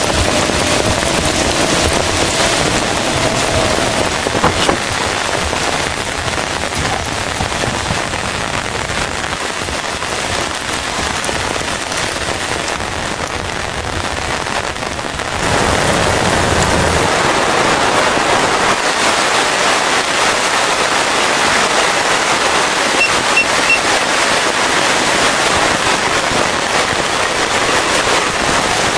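Rain falling steadily; it gets louder a little over halfway through.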